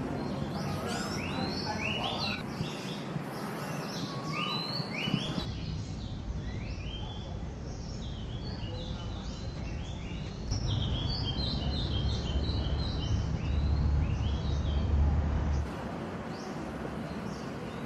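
Many small birds chirping and trilling in trees over a steady outdoor background, with a low rumble coming in about halfway through and cutting off shortly before the end.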